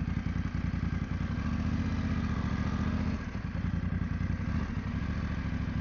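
BMW F900GS parallel-twin engine running at low revs as the bike is ridden slowly on a dirt trail, with a steady pulsing beat. Engine speed rises a little about a second and a half in and eases off just past three seconds.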